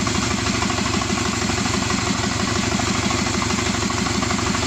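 Subaru EJ255 2.5-litre turbocharged flat-four engine idling steadily, with an even, rapid pulse.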